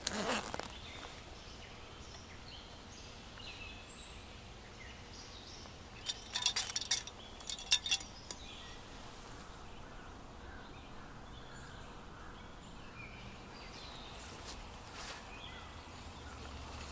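Outdoor ambience with faint scattered bird chirps. A quick cluster of sharp clicks and knocks comes about six seconds in and lasts a couple of seconds.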